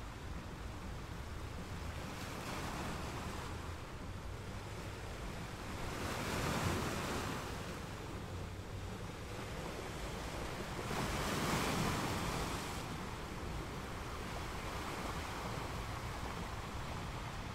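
Ocean waves gently breaking and washing, a continuous surf sound that swells louder twice, about six and about eleven seconds in, as bigger waves break.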